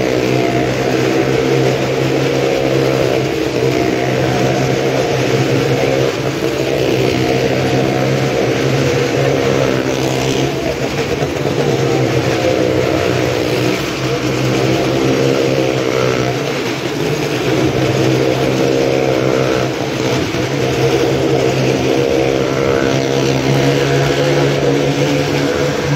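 Engine of a small car driven round the vertical wall of a well-of-death show, revving in waves that rise and fall every few seconds as it laps.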